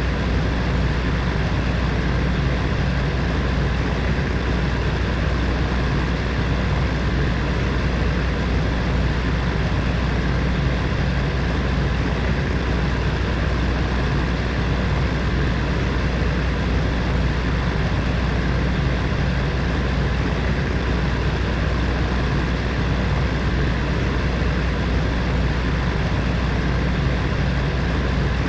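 Space heater's fan running steadily: an even whoosh of air over a low motor hum, with no change in speed.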